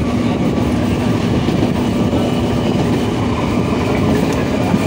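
Chennai suburban electric local train running at speed, heard from inside the carriage: a steady loud rumble of wheels on the rails with a low steady hum.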